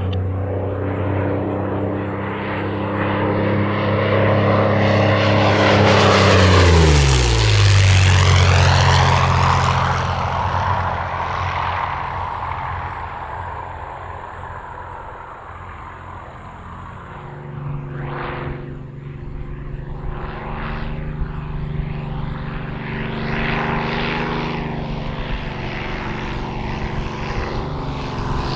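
A WWII fighter's V-12 piston engine and propeller making a fast low pass. The engine note swells to its loudest about seven seconds in, drops sharply in pitch as it goes by, and fades away. From about seventeen seconds in, an aircraft engine grows louder again as another pass approaches.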